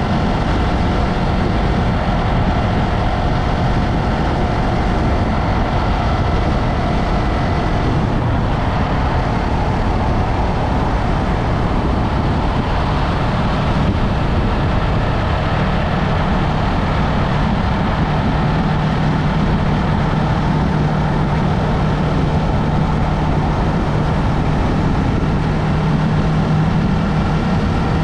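Yamaha MT-03 parallel-twin motorcycle engine running steadily under way, mixed with road noise, with a steady low engine drone settling in from about halfway.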